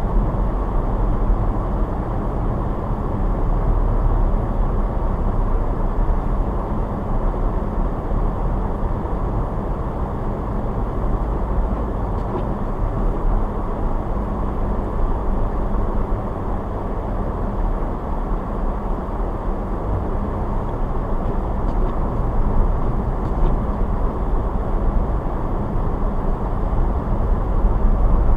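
A car driving on snowy roads: steady low engine and tyre rumble with a few faint steady hum tones underneath.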